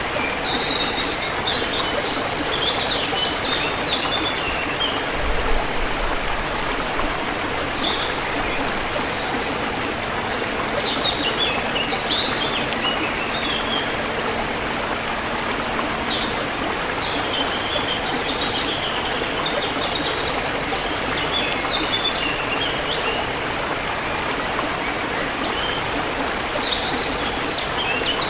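Forest river flowing steadily, with small birds chirping in short, high calls every few seconds over the water.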